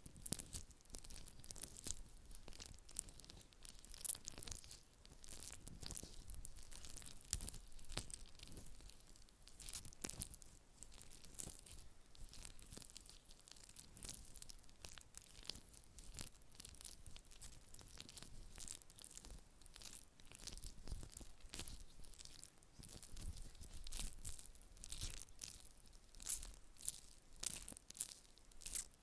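Close-miked ASMR handling sounds: a dense, irregular run of small scratchy crackles and clicks, soft overall.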